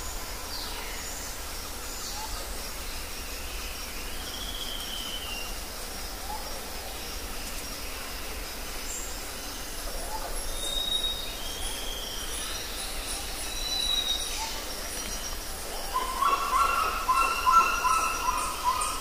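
Bird calls: scattered short whistles and gliding chirps over a steady background hiss, with a louder warbling call starting about three seconds before the end.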